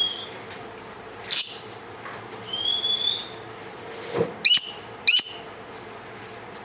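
Pet lovebird calling: a sharp falling chirp, a drawn-out whistled note, then a quick run of three shrill chirps.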